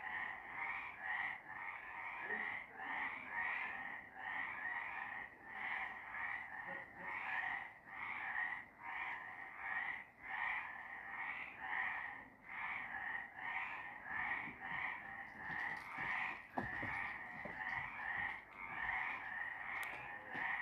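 A chorus of several frogs croaking in a steady, overlapping rhythm, about three calls every two seconds.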